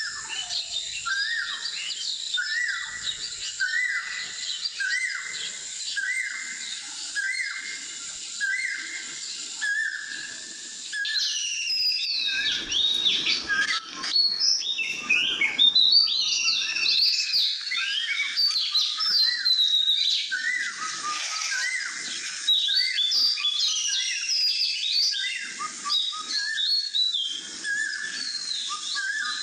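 Birds singing: a short chirp repeats about once a second, then about a third of the way through a denser chorus of several birds joins in with varied, higher, sliding calls.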